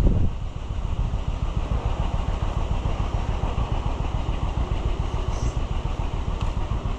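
A small engine running steadily, with a fast, even low throb.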